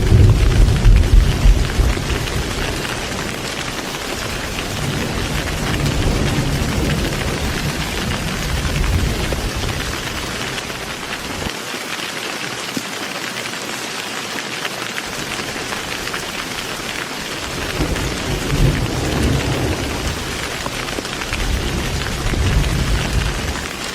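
Heavy rain falling steadily, with rolling thunder rumbling under it. The thunder is loudest at the start, dies away, and rumbles in again a few times, with a lull of several seconds near the middle.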